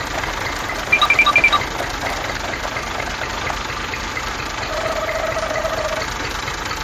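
Small motor of a DIY mini toy tractor running with a fast, even rattle. About a second in come a quick run of four or five short high beeps, and later a steady tone lasting about a second.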